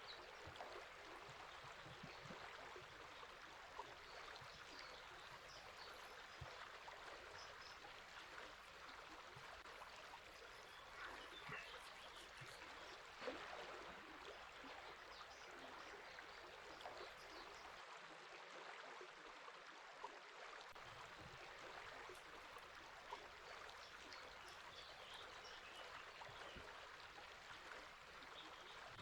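River water flowing steadily and faintly, with scattered faint bird chirps.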